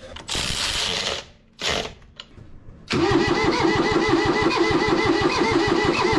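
Two short hissing bursts, then about three seconds in a Kubota diesel tractor engine starts turning over on the starter with a loud, uneven rhythmic churn that keeps going.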